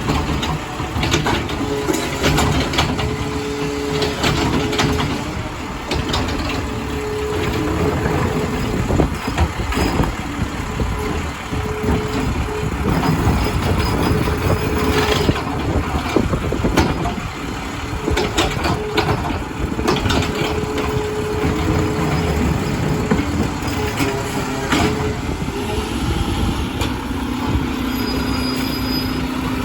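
Garbage truck at work: its diesel engine runs steadily while a mid-pitched tone switches on and off every second or two, with scattered clanks and knocks throughout.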